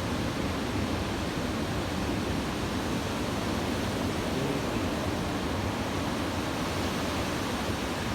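Ocean surf from typhoon swell, breaking waves blending into a steady, even wash of noise.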